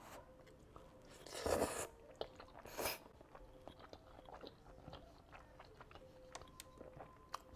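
Close-miked chewing of a mouthful of fettuccine alfredo: soft wet mouth clicks and smacks, with two short louder noisy bursts about one and a half and three seconds in.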